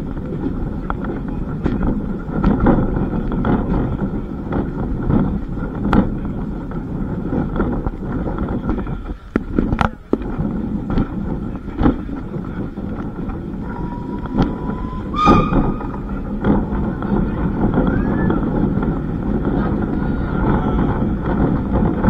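Historic train running, a steady rumble with irregular clicks and knocks, and a short high-pitched tone about fifteen seconds in.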